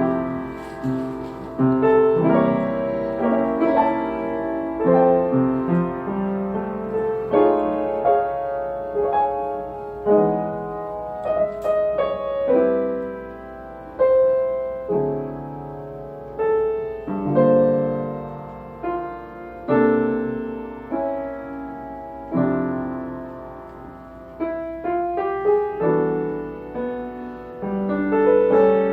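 Solo jazz piano playing a slow ballad: rich chords with added ninths, elevenths and thirteenths, struck every second or two and left to ring and fade, with a melody on top.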